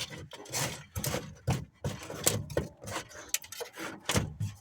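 A rapid, irregular run of knocks, scuffs and rustles, with no steady rhythm.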